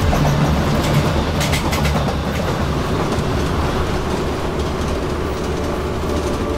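Train running along the track: a steady rumble with wheels clacking over rail joints, and a few sharp clicks about one and a half seconds in.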